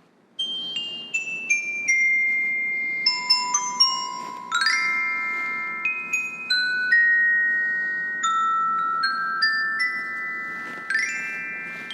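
Music of ringing glockenspiel-like mallet notes: a run of single notes stepping downward, then quick upward arpeggios that build into sustained chords, twice, over a faint soft hiss.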